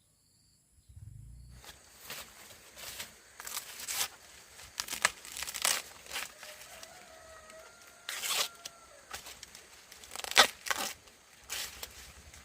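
Dry corn husks and leaves tearing and rustling in sharp, irregular bursts as corn is harvested by hand. A faint drawn-out animal call sounds in the middle.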